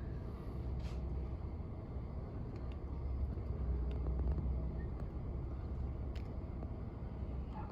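Crane-equipped garbage truck's diesel engine running steadily as a low rumble while its crane arm lowers, with a few faint ticks.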